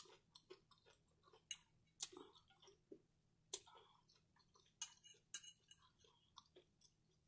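Faint close-up chewing of cheesy shrimp nachos: soft, irregular mouth clicks and smacks, a few a second.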